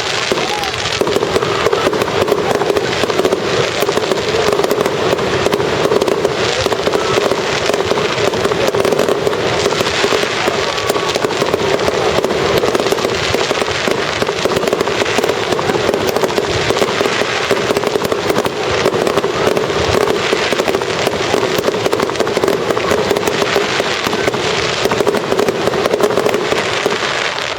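A fireworks display going off continuously: dense crackling and popping of bursting shells, with a steady drone underneath.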